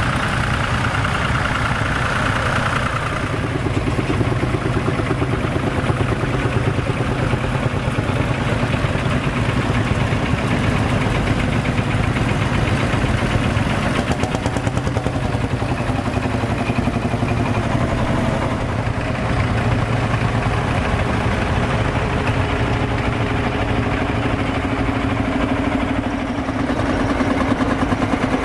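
Vintage tractor engines running at low revs as tractors pass one after another, a steady chugging with a low, fast even pulse.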